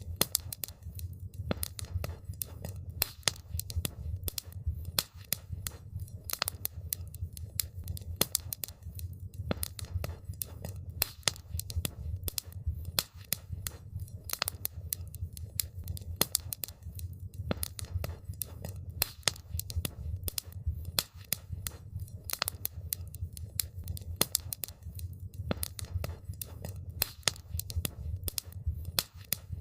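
Wood campfire crackling, with many irregular sharp snaps and pops over a steady low rumble.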